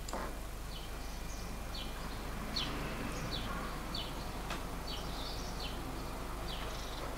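Small birds chirping outdoors, short high chirps repeating about every half second over a steady faint background hiss, with a single click at the start as the balcony door handle turns.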